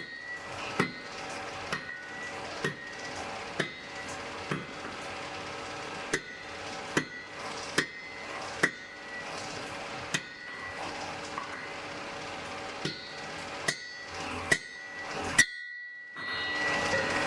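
Blacksmith's hammer striking an anvil in a steady rhythm of about one blow a second, with a few short pauses; each blow rings with a clear metallic tone. A steady hiss runs underneath, and the blows stop near the end, giving way to a louder steady rushing noise.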